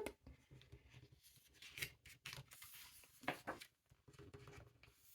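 Near silence, with a few faint, short paper rustles from the pages of a picture book being turned, the loudest about two seconds and three seconds in.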